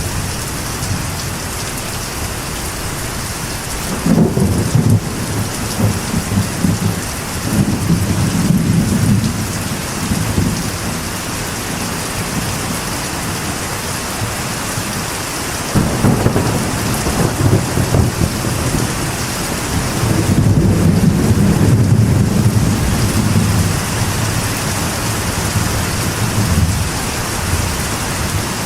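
Steady heavy rain falling on a metal roof, with two long rolls of thunder, the first starting suddenly about four seconds in and the second just past halfway, each rumbling on for several seconds.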